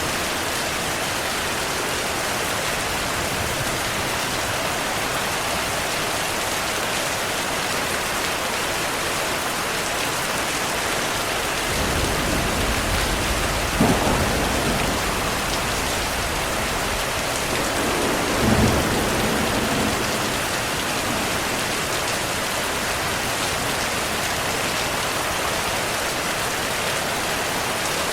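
Heavy rain falling steadily, with thunder rumbling in the middle: two louder peaks, about four and a half seconds apart.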